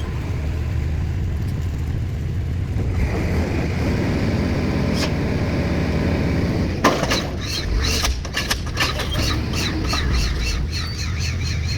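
Pile-driving rig's engine running with a steady low rumble. From about seven seconds in, a hard knock starts a rapid series of metallic strikes mixed with repeated high squeals as the diesel pile hammer works.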